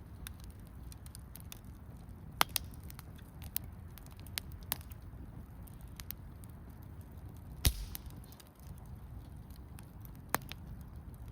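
Wood campfire crackling: scattered sharp pops and snaps over a low steady rumble, with the loudest pops about two and a half, seven and a half and ten seconds in.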